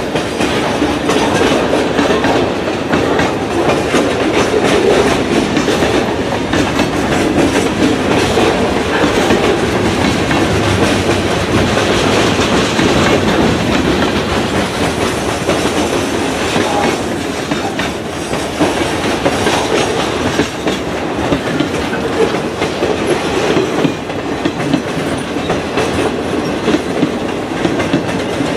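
Slow-moving mixed freight train rolling past: a steady rumble of the freight cars with the clickety-clack of wheels over the rail joints.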